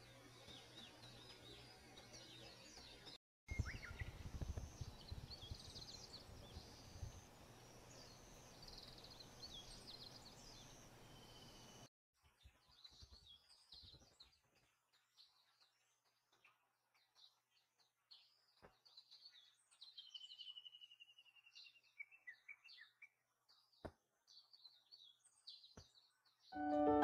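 Faint birdsong: small birds chirping and whistling repeatedly against outdoor background noise, with a low rumble for several seconds after the background changes abruptly about three seconds in. Piano music comes in at the very end.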